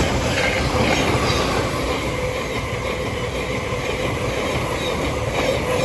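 Thameslink Class 700 electric multiple unit passing through the station: a loud, steady rush of wheels on rail with an even hum underneath.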